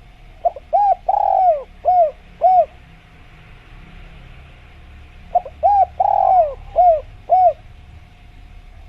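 Spotted dove (tekukur) cooing: two phrases of about five short coos each, with a longer, drawn-out coo second in each phrase, the first beginning about half a second in and the second about five seconds in.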